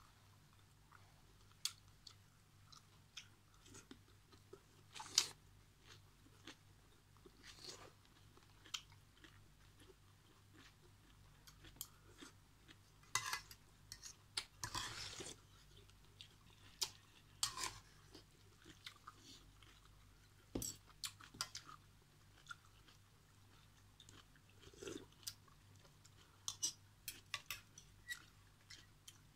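Close-up eating sounds: quiet chewing of noodles and vegetables, with scattered light clicks of a spoon and fork against a metal pot. A short slurp of broth comes about halfway through.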